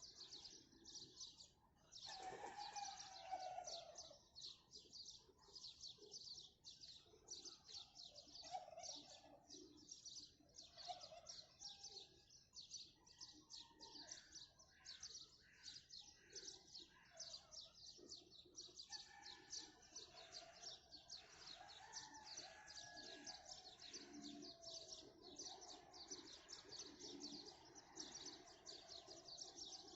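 A chorus of many small birds chirping rapidly and without a break, faint, with scattered lower calls among the chirping.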